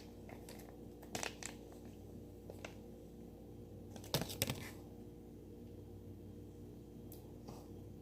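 A few short crinkling and clicking handling noises, a pair about a second in and a louder cluster around four seconds in, over a steady low electrical hum.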